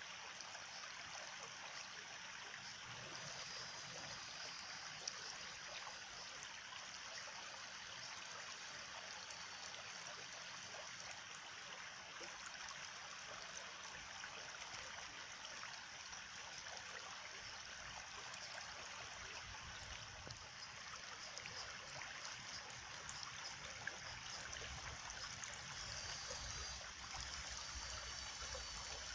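Water of a small stream flowing and trickling steadily.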